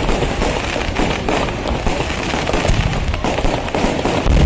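Traditional Kerala temple fireworks: a dense, unbroken barrage of rapid firecracker bangs, with heavier booms coming in near the end.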